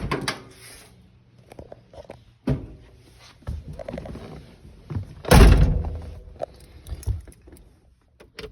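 Scattered clicks and knocks and a heavy slam about five seconds in, from the steel body of a 1961 DKW 750 Junior being shut up before it is started.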